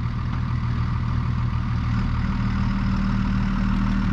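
Truck engine running steadily. A steady higher drone joins the engine sound about two seconds in and holds.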